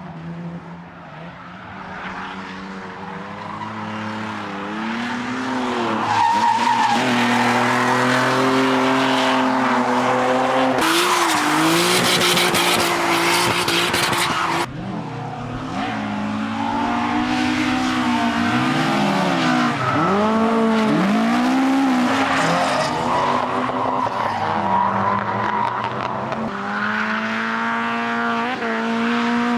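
Drift cars sliding past at full throttle, engines revving up and down over and over with tyre squeal, growing louder over the first few seconds. A burst of harsh tyre skid noise in the middle cuts off suddenly.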